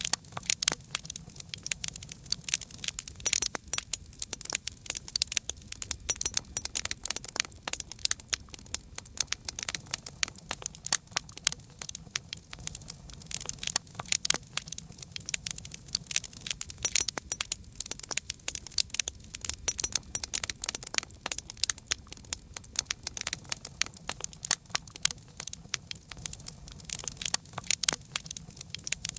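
Campfire burning, with dense, irregular crackles and pops of burning wood over a low, steady rumble of flame.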